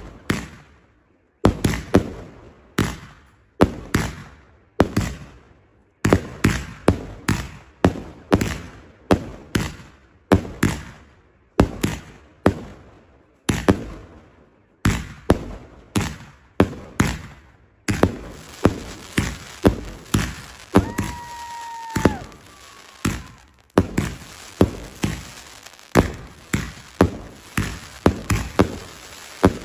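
Fireworks going off: a long run of sharp bangs, one or two a second, each with a fading echo, coming thicker over a hiss in the second half. A steady whistle sounds for about a second roughly two-thirds of the way through.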